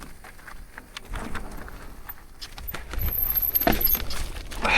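Marin Alpine Trail 7 full-suspension mountain bike rolling downhill over rough, rooty trail: tyres rumbling on dirt under a quick, uneven clatter of knocks and rattles from the bike. It grows louder about three seconds in.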